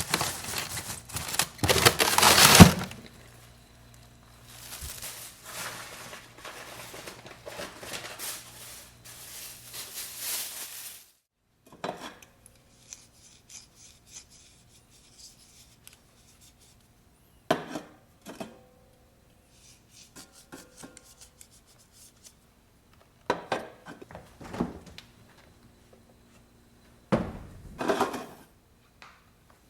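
Food storage containers and packages being handled while a freezer is reorganized. A loud burst of clattering in the first few seconds and softer rustling to about the middle are followed by a few separate knocks as items are set down.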